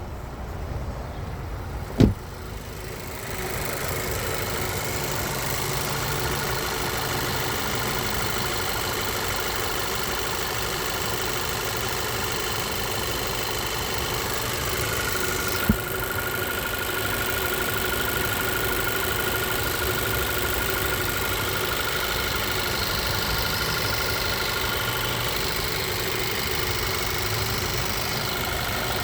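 2012 Volkswagen GTI's 2.0-litre turbocharged four-cylinder engine idling steadily, with one sharp thump about two seconds in and a smaller click about halfway through.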